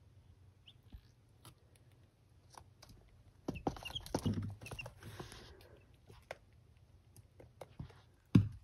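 Chickens clucking softly, with a cluster of clucks and short high peeps about three and a half to five and a half seconds in, among scattered light clicks and rustles.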